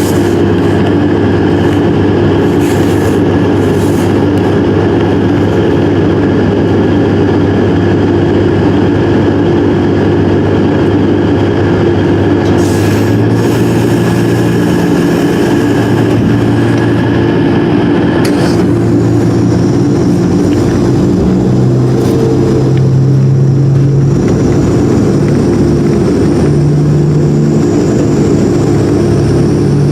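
Passenger train running, with a steady drone and rail noise, and a low engine tone that shifts pitch in steps about 13 and 18 seconds in.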